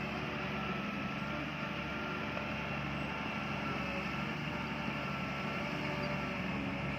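Bulldozer's diesel engine running steadily at an even pitch, with no change in load.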